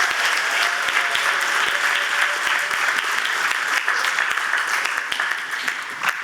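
Theater audience applauding, the clapping dying away near the end.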